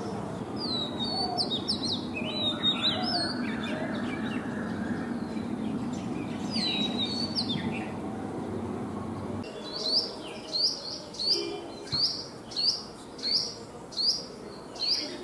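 Birds chirping with high, downward-slurred notes over background noise. About two-thirds of the way through, a bird starts repeating one short, down-slurred call steadily, about one and a half times a second.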